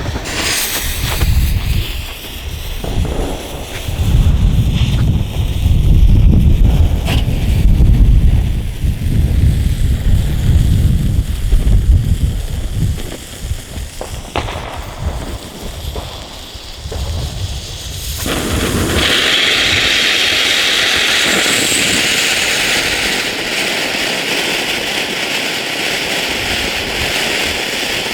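Weco "Mutant" consumer firework battery firing, with heavy low rumbling and a few sharp cracks. About 18 seconds in the sound switches abruptly to a steady, even hiss.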